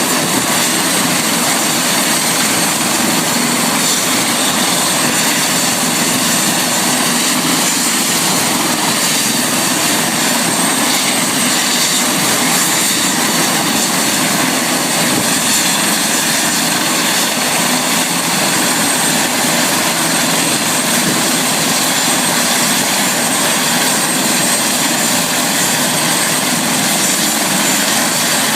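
Helicopter running steadily: loud, unbroken engine and rotor noise with a thin high whine over it.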